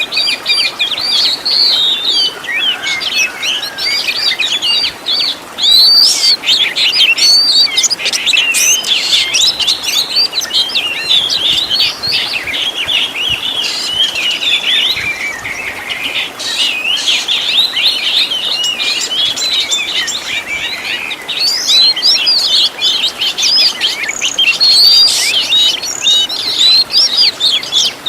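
Oriental magpie-robin (kacer) singing without a break: a fast, varied run of sharp whistled notes and quick sweeping chatters, loud throughout.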